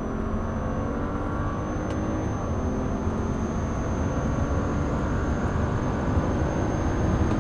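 BMW ActiveHybrid 3's turbocharged straight-six engine pulling under acceleration, its pitch rising steadily as the speed climbs, with road and wind noise beneath.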